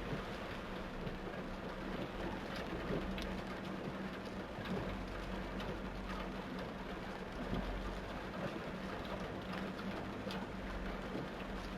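Torrential rain falling steadily: a dense, even hiss with scattered sharper drop impacts, over a steady low hum.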